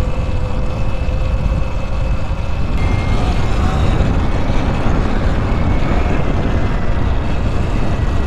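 Wind buffeting the microphone while riding an electric dirt bike, a loud steady low rush, with a faint whine from the Sur-Ron's electric motor that rises slightly and then drops away about three seconds in.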